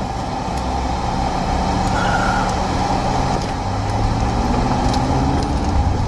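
Car running on the road, heard from inside the cabin: a steady engine and tyre rumble, with the engine note climbing a little about two-thirds of the way through as the car pulls uphill.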